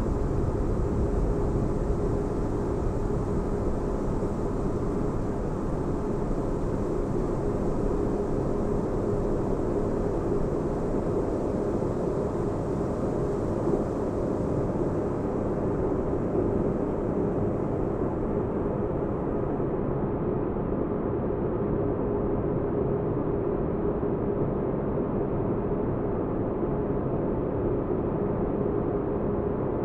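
Sci-fi spaceship interior ambience: a steady deep rumble with a faint low hum, made as white-noise-style sleep sound. A faint high hiss on top fades out about two-thirds of the way through.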